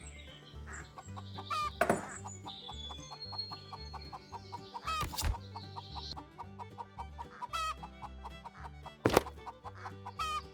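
Chickens clucking over background music with a steady beat, with a few short sharp clicks.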